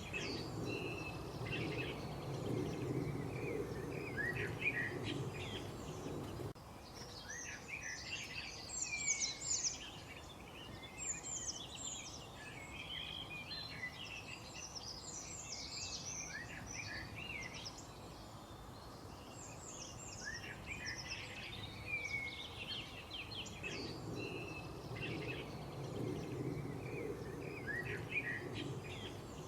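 Several small birds chirping and singing in quick overlapping calls and trills. A low background rumble runs under them at first, cuts off abruptly about six seconds in, and comes back near the end.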